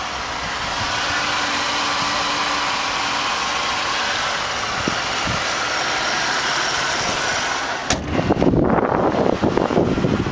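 Chevrolet 3.8 liter V6 running at a steady idle. About eight seconds in a sharp click cuts in, followed by rough, uneven buffeting noise on the microphone.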